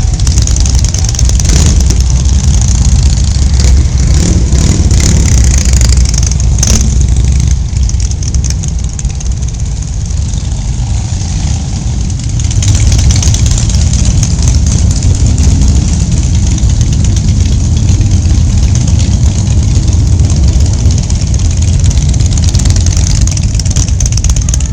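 Motorcycle engine running with a steady low rumble and a broad hiss over it, easing off for a few seconds about a third of the way through before coming back up.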